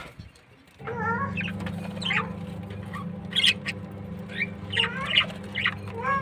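Small birds chirping and twittering in short calls that rise in pitch, over a steady low hum that sets in about a second in, after a brief near-silent start.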